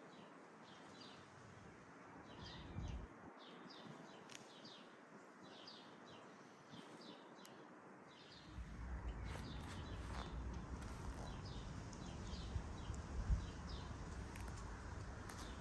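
Small birds chirping in short repeated notes. About halfway through, a low rumble joins and the sound gets louder.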